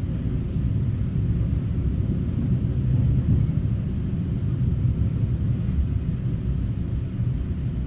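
Steady low rumble inside the cabin of a Taiwan Railway EMU900 electric multiple unit.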